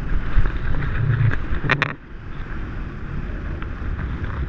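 Wind buffeting a GoPro's microphone high up on a parasail, a steady low rumble, with two or three sharp clicks a little before the middle.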